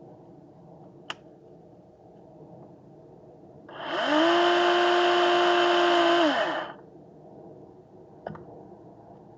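Electric saw motor spinning up to a steady high whine, running for about three seconds, then winding down, with a sharp click shortly before and another after.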